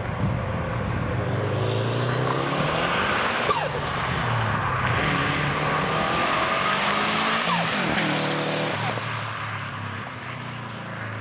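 2004 Subaru WRX STi's turbocharged 2.5-litre flat-four through a B&B catback exhaust and catless downpipe, accelerating hard: the pitch climbs, drops at a gear change about three and a half seconds in, climbs again and falls off around eight seconds, then the sound fades near the end.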